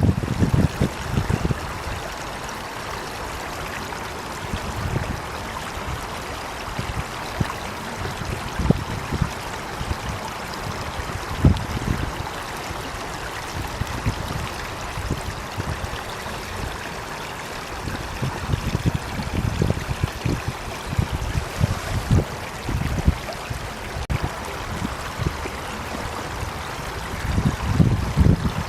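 Meltwater running in a small stream: a steady rush and trickle, with low rumbles coming and going.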